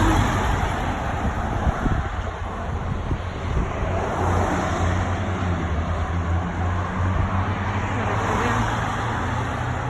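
Steady outdoor traffic noise: motor vehicles running nearby, with a low, even engine hum under a continuous wash of noise.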